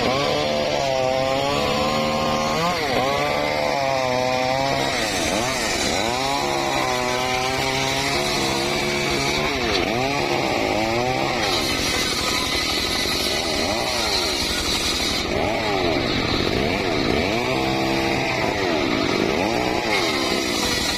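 Engine of a power saw running hard, its pitch repeatedly dipping and rising again about once a second.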